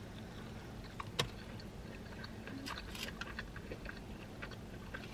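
Close-up eating sounds of a person biting into and chewing a burrito: soft wet chewing with scattered small clicks, one sharper click about a second in. A low steady hum runs underneath.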